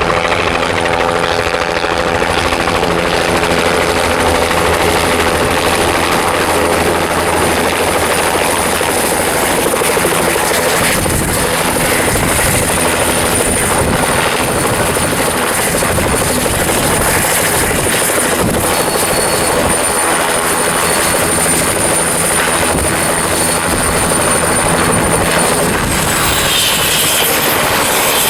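Helicopter running close by, a loud steady mix of rotor beat and turbine engine noise with a thin high whine. The rotor's low pulsing is strongest in the first ten seconds, and the whine shifts in pitch near the end.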